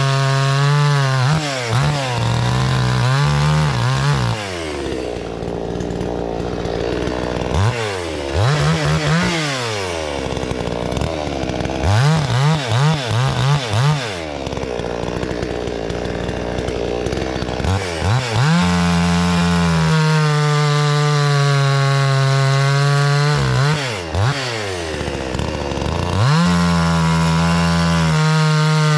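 A 60 cc-class two-stroke gas chainsaw cutting wood at full throttle. It drops back to idle between cuts several times, with a few quick throttle blips about twelve seconds in, and runs long steady full-throttle stretches in the second half.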